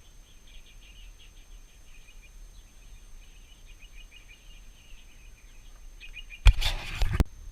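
Faint, quick bird chirping runs through, then a loud, brief burst of noise cuts in near the end.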